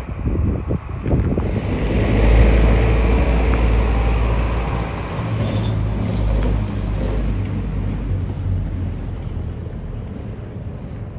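Low engine rumble of a passing motor vehicle, swelling about two seconds in and slowly fading, with a few light knocks at the start.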